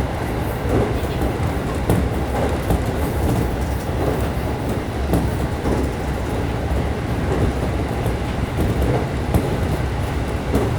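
JR local train running along the line: a steady low rumble of wheels on rail, with occasional clacks as the wheels pass over rail joints.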